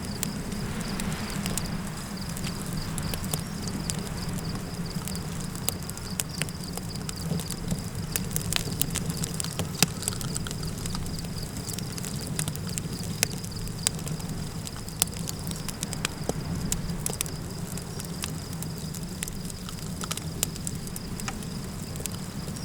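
Campfire crackling, with scattered sharp pops over a steady low rumble of wind, and a continuous high insect trill like crickets.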